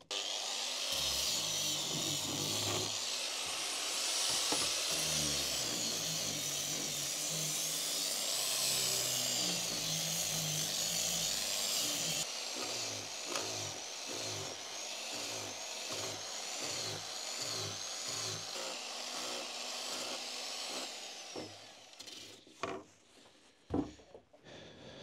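Electric sander running with 220-grit paper, sanding a plane-wood pizza peel for a fine finish, its motor whine wavering in pitch under load. It stops about 21 seconds in, followed by a couple of sharp knocks.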